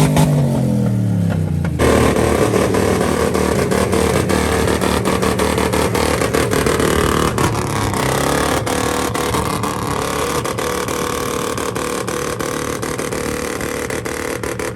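Loud vehicle engine and exhaust. The revs fall away in the first two seconds, then about two seconds in a louder, rougher engine sound takes over, held at high revs and slowly easing off.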